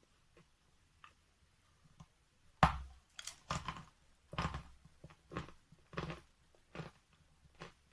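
A person bites into a piece of wet natural 'Letniy' chalk with one sharp crunch about two and a half seconds in, then chews it with a run of crunches spaced well under a second apart.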